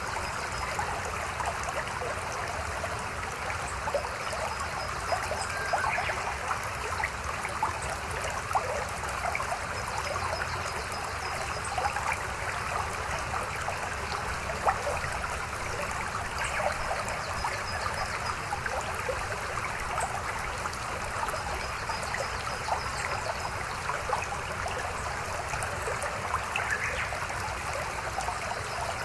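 Mountain river running steadily, a continuous rush of water with many small splashes. A faint, high, rapid ticking comes and goes several times.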